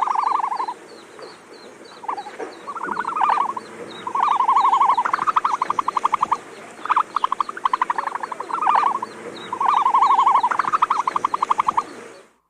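An animal calling in a series of short, fast-pulsed trills, about ten bouts in a row, each under a second to a second and a half long.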